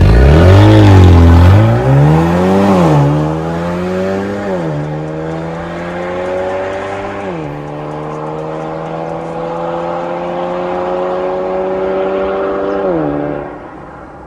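Exhaust note of a Mercedes-AMG CLA35's turbocharged four-cylinder M260 engine through an MS-R valved cat-back exhaust, accelerating up through the gears. The pitch climbs steadily and drops sharply at each upshift. It is loudest at the start and fades away near the end.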